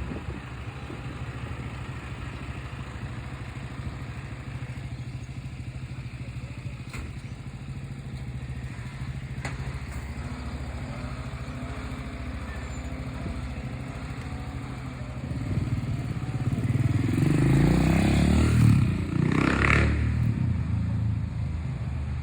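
Truck engine idling with a steady low rumble. About fifteen seconds in it grows louder and revs up, with a rise in pitch near the end.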